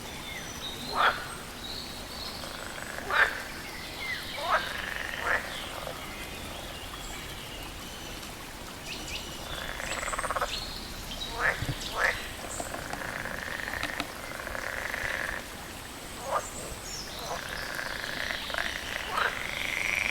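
Frogs croaking: short, sharp calls that drop steeply in pitch, coming every second or few seconds, with stretches of buzzy trilling in the second half over a steady background hiss.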